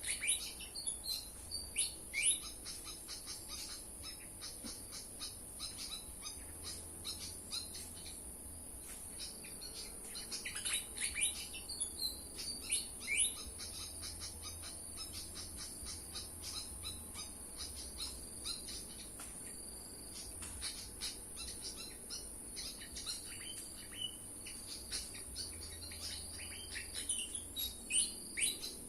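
Squeaky, falling call notes of a Malaysian pied fantail, in three bouts: near the start, about ten seconds in, and near the end. A steady high-pitched insect drone runs underneath.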